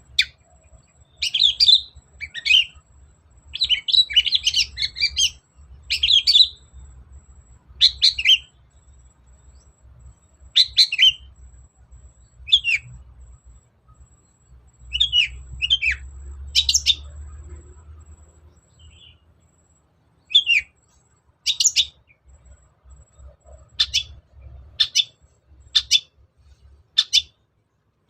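Long-tailed shrike (cendet) singing: a string of short, scratchy chattering phrases with brief pauses between them, some quicker and denser, some single sharp notes.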